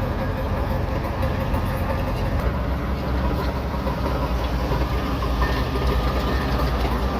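Shantui DH17C3 crawler bulldozer's diesel engine running steadily with a low drone and a faint steady whine above it.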